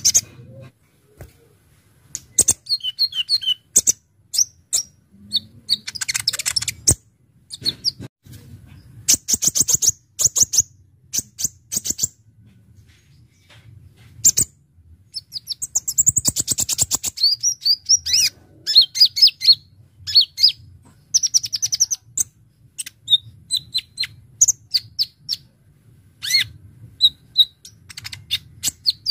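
A kolibri ninja (konin) sunbird singing: spurts of rapid, sharp, high-pitched chirps and fast rattling trills, separated by short pauses, over a faint low hum.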